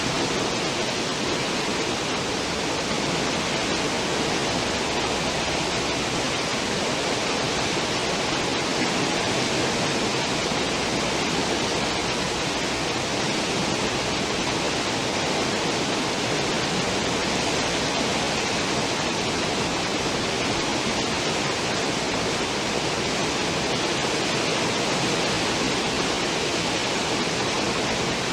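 Cruise ship stern wake: a steady, even rush of churning water.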